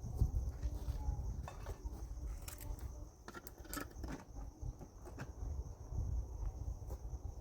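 Outdoor ambience: a steady high insect trill with a low rumble, likely wind on the microphone, and a few faint clicks or knocks in the middle.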